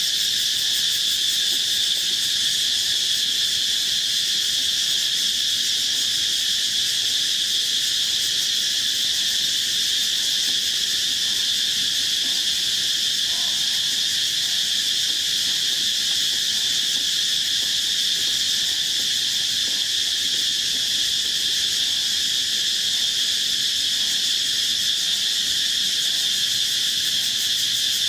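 Dense chorus of rainforest insects, a steady high-pitched trilling that never lets up.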